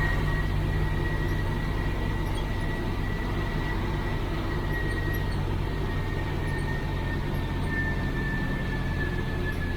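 IFA L60 truck's diesel engine running steadily under way, heard from inside the cab, with a steady high whine over the low engine note.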